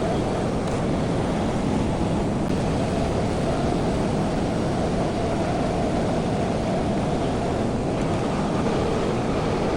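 Tractor engine running steadily under load while clearing snow, scooping it with the loader.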